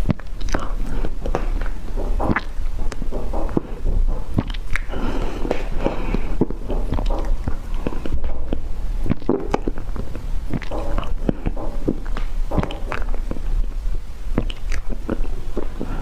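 Close-miked eating: biting and chewing, with many sharp, irregular mouth clicks.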